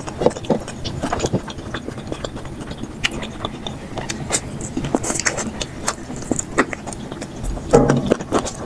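Close-miked eating sounds sped up to double speed: a person chewing and smacking on rice and curry in quick wet clicks, with a louder bump about eight seconds in.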